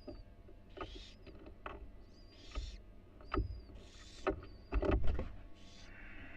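Barn owl moving about in a wooden nest box: a series of knocks and scratches against the box, loudest near the end. Short hissing calls come every second or two between them.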